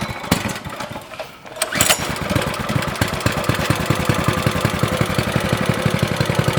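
Mini bike's small pull-start engine catching about two seconds in, then running at a steady idle with a fast, even putter.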